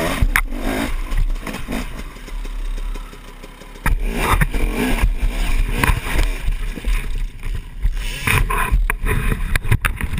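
Off-road dirt bike engine revving, mixed with a heavy low rumble and repeated sharp knocks and clatters.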